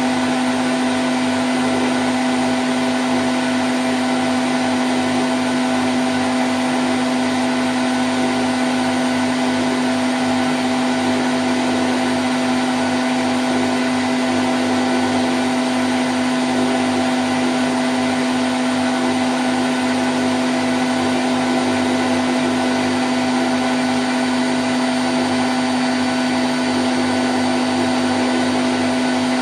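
Candy Grand O' F106 washing machine on its 1000 rpm spin cycle: a steady, even whir with a constant hum and a wash of noise, holding the same speed without change.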